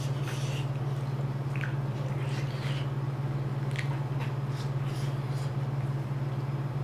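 Close-up eating sounds: chewing and wet mouth clicks, with a few soft smacks, from someone eating shrimp, vegetables and rice with a spoon. Under it a steady low hum.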